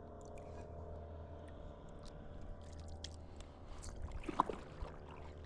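Quiet ambience on open water: a low, steady engine drone like a distant motorboat, with scattered small clicks and a brief louder flurry of sound about four and a half seconds in.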